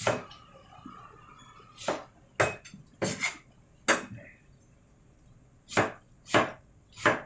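Kitchen knife chopping food against a cutting board: about eight separate knocks at an uneven pace, with a pause of nearly two seconds midway.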